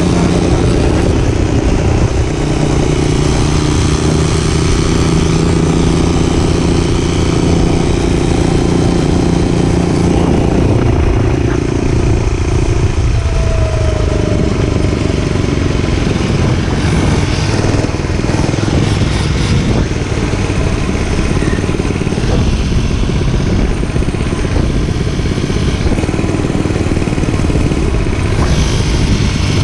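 Gas dirt bike engine running under way, a steady engine note for the first third or so, then the note falls away about halfway through and the sound turns rougher and noisier.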